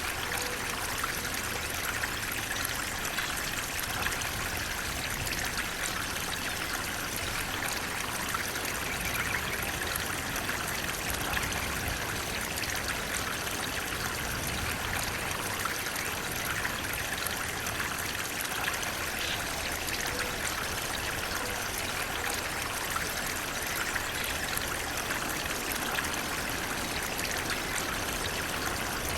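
Water flowing and trickling in a steady stream, a continuous splashing rush with fine droplet flicker and no change in level.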